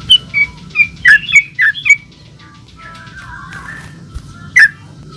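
Yellow-vented bulbul (trucukan) singing: a quick run of about seven loud, short notes in the first two seconds, then softer chatter and one more loud note near the end.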